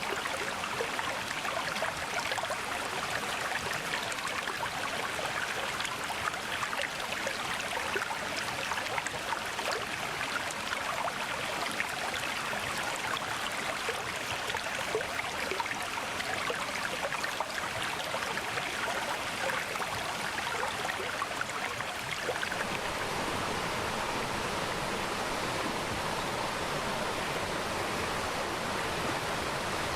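Mountain stream water flowing and splashing over rocks in a steady rush. About 22 s in, the sound turns smoother and lower.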